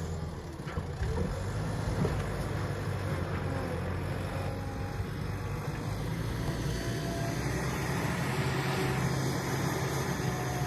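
Heavy diesel engine running steadily at a constant speed, with a strong low drone.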